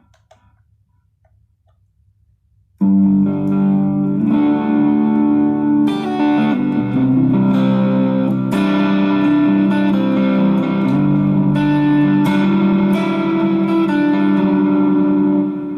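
Electric guitar fitted with a Duncan-style treble bleed on the volume pot and an Orange Drop 0.022 µF tone capacitor, played through distortion in held, ringing chords. It comes in suddenly about three seconds in after a quiet start and eases off near the end.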